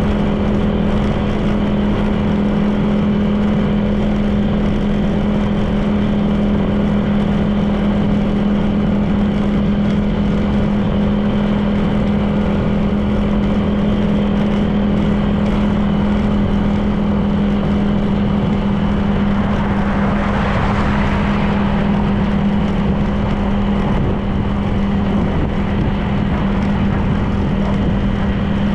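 Honda PCX 160 scooter's single-cylinder engine running at a steady cruising speed, with a continuous drone and road and wind rush. A brief swell of rushing noise rises and fades about twenty seconds in.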